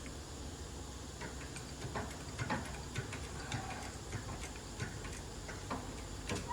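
Irregular sharp clicks and light metallic ticks, about one or two a second, from hand tools working a bearing press as a new front wheel bearing is slowly pressed into the hub.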